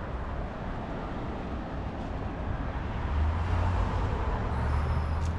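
Steady low rumble of distant road traffic, swelling about three seconds in.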